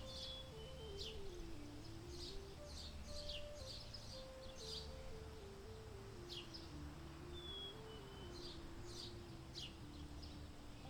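Frequent quick, high bird chirps with a few short whistled notes, over soft, slow ambient music: a gentle melody moving in small steps above low held notes.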